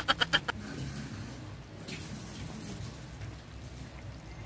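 A laughter sound effect ending about half a second in, then the faint, steady bubbling of a pot of pork stew simmering in tomato broth.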